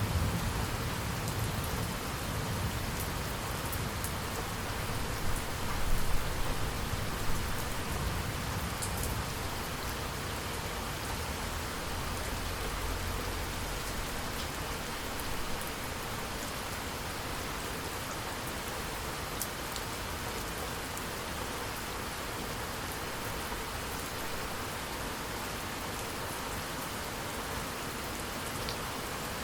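Steady rain falling on surfaces in an even hiss. A low thunder rumble dies away over the first half, swelling briefly about six seconds in.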